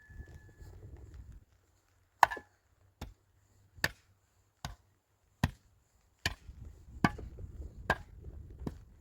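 A series of sharp, evenly spaced chopping blows, nine in all, about one every 0.8 seconds, starting about two seconds in. A low rumble sits under the opening second and under the later blows.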